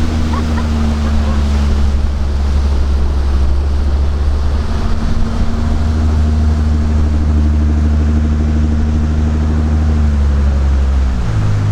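Canal boat's engine running steadily with a low hum; near the end its note drops as the revs come down.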